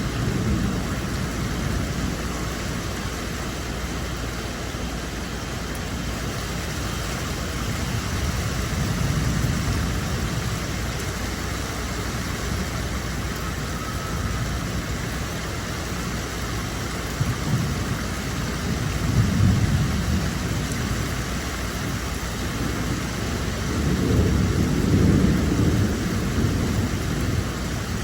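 Steady hiss of heavy rain, with low rumbles swelling and fading three times, about a third of the way in, near two-thirds, and loudest near the end.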